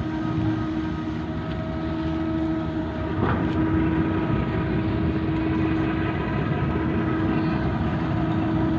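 Heavy diesel engines running steadily: a constant hum over a low rumble, with a single sharp knock about three seconds in.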